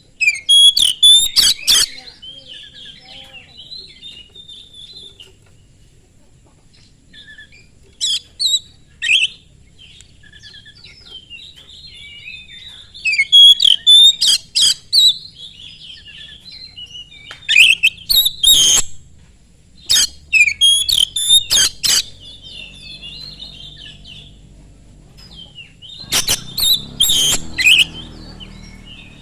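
Oriental magpie-robin (kacer) singing: several loud bursts of rapid varied whistles and harsh, rasping notes, with quieter twittering between them.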